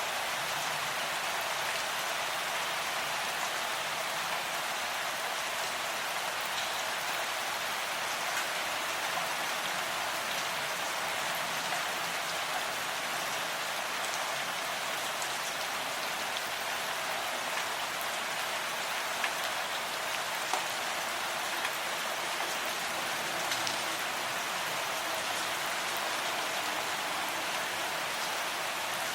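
Steady rain falling, an even hiss with scattered individual drops ticking on a surface and a few louder drips in the second half.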